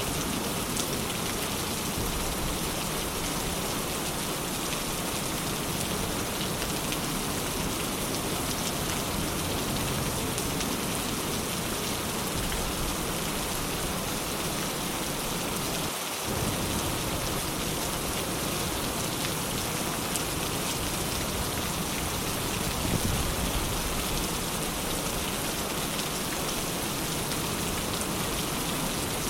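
Steady rain falling, a dense even hiss of drops, with a brief dip in the low end about halfway through.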